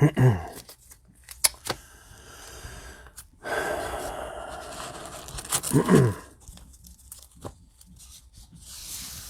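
Packaging rustling and tearing for a couple of seconds, with a few sharp clicks before it. A short falling vocal groan comes at the start and again about six seconds in.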